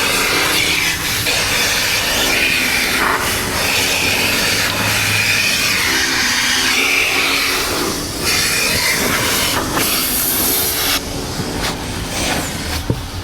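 Coin-operated car wash vacuum running, its hose nozzle rushing with suction as it works over the car's interior; the rush drops and thins about eleven seconds in.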